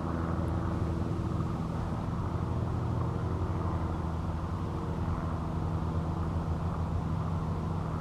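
Steady hum of running machinery: an even, unchanging drone with a constant pitch.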